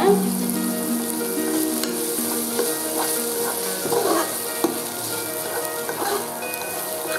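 Broken-wheat rava and chopped vegetables sizzling in hot oil in an aluminium pressure cooker, stirred with a steel spoon that scrapes the pan now and then, as the rava is roasted.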